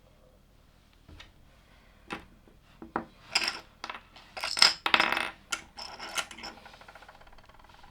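Plastic LEGO pieces clicking and clattering as they are handled: a few separate clicks, then several short bursts of rattling.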